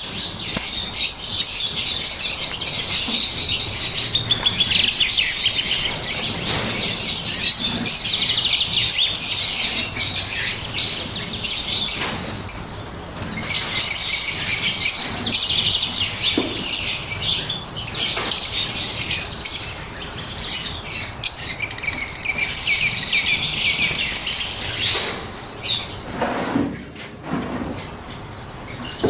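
A group of lovebirds chirping and chattering continuously in a dense overlapping chorus of high, rapid calls, with a couple of brief lulls.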